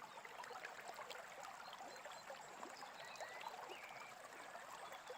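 Faint babbling brook, a steady trickle of water, with a few soft bird chirps over it.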